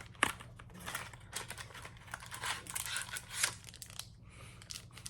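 Product packaging crinkling and rustling as it is handled and pulled open, in a run of irregular crackles with a brief lull about four seconds in.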